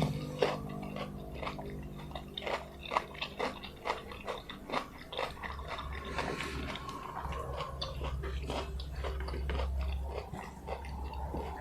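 Close-miked eating sounds: chewing, with irregular wet mouth clicks and smacks, over a low steady hum.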